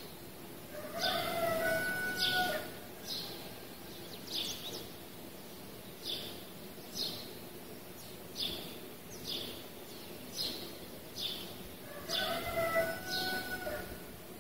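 A bird chirping: short, high, falling chirps about once a second, with a longer warbling call about a second in and again near the end.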